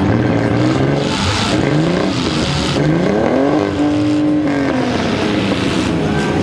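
Several demolition-derby car engines revving at once, pitches rising and falling over each other; about three and a half seconds in one engine climbs to high revs, holds for about a second, then drops back.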